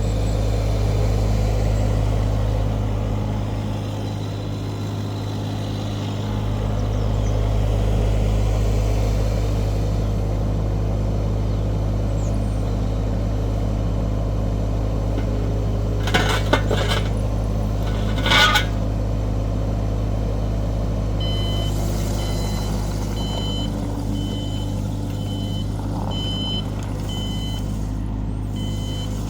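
Kubota diesel engine of a Sunward SWE25UF mini excavator running steadily. Two loud metallic clatters come just past halfway. In the last third an alarm starts beeping regularly, about once a second.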